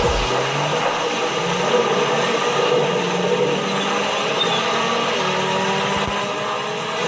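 A car running, its engine hum holding steady with a few tones slowly sliding in pitch, under a steady hiss.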